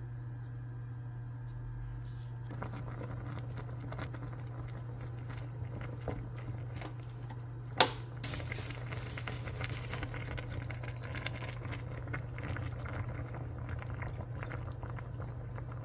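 Kitchen cooking sounds over a steady low hum as pork-neck kimchi stew is started: a single sharp click about eight seconds in, then a short rush of noise and soft crackling.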